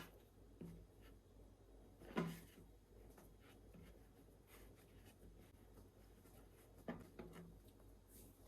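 Quiet kitchen work: a few light knocks and taps of utensils or dishes being handled. The loudest comes about two seconds in, and a small cluster of taps follows near the end.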